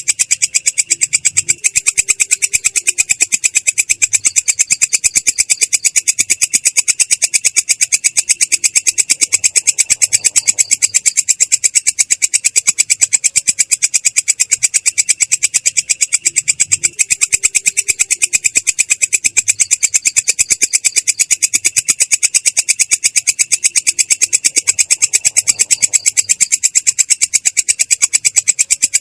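Belalang kecek grasshopper calling in one continuous rolling trill. It is a fast, even stream of high-pitched rasping clicks that sounds clear but rough.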